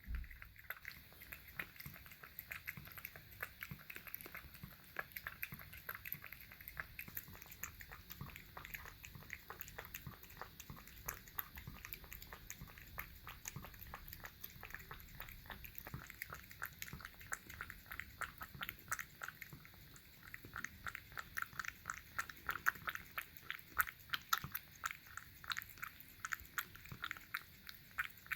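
Cat lapping and eating at its bowl: a long, fast run of small wet clicks, louder in the last third.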